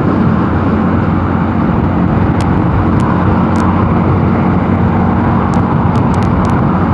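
Mondial Nevada 250 motorcycle engine running at a steady cruising speed, with wind rushing over the microphone. A few light ticks are heard in the middle and near the end.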